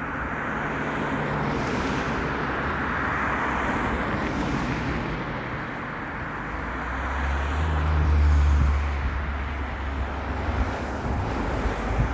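Outdoor traffic noise with wind on the microphone. A vehicle passes with a low rumble, loudest about eight seconds in.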